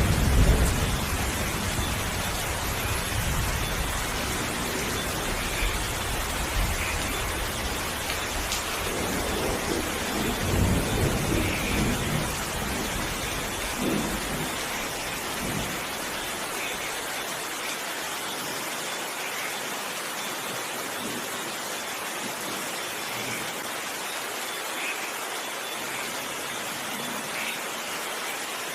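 Steady heavy rain with rolling thunder: a loud rumble at the start and further rumbles about a third of the way through, after which the thunder dies away and only the rain's even hiss remains.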